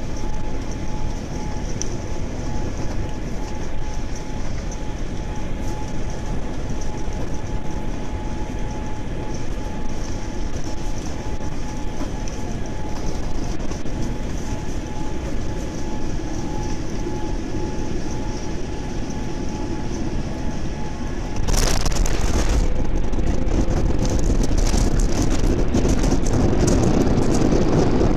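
Steady rumble of airflow and engines inside a Boeing 787 airliner's cabin, with a faint steady tone. About three quarters of the way through, a sudden short burst of noise, after which the rumble is louder and heavier.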